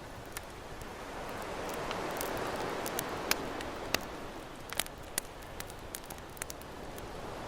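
Campfire crackling with sharp, irregular pops, over a wash of ocean waves that swells and recedes.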